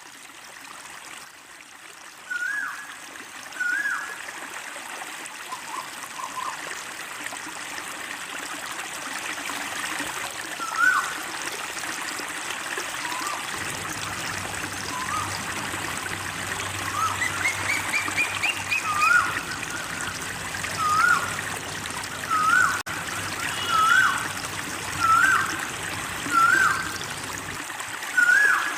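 A bird's short, hooked whistled call repeats over steady trickling running water, a few calls at first and then about one a second in the second half. A low steady hum joins partway through and stops near the end.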